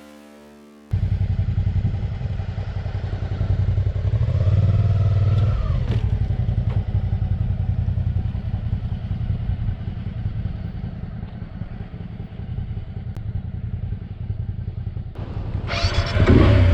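Motorcycle engine running while riding, with heavy wind and road rumble on the microphone, cutting in abruptly about a second in. A brief rising and falling tone comes a few seconds in, and a louder rush of noise near the end.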